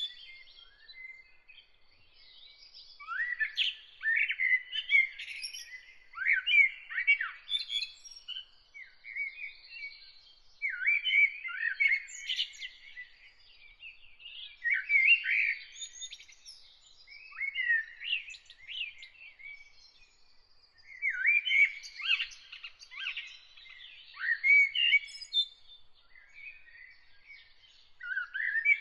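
Songbirds singing in short, varied phrases of quick chirps and sweeping notes, one phrase every three or four seconds with brief pauses between. A faint, steady high tone runs underneath.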